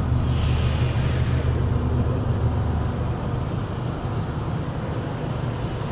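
Motor vehicle engine running with a steady low drone that drops off about three seconds in. A brief hiss comes in the first second and a half.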